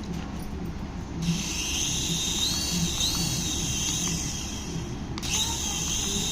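High-pitched whirring from a battery-powered toy, starting about a second in, cutting out briefly near five seconds, then starting again, with small wavering glides in pitch.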